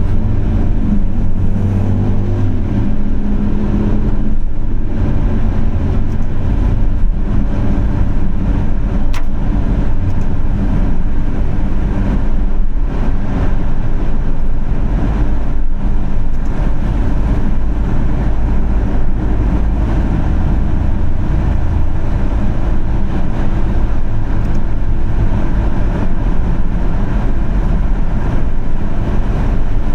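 A car driving on wet city roads: a steady low rumble of engine and tyre noise.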